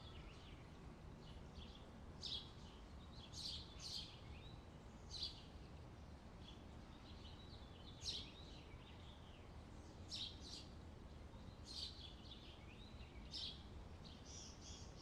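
Faint bird chirps, short calls every second or two, over a quiet, steady low background noise.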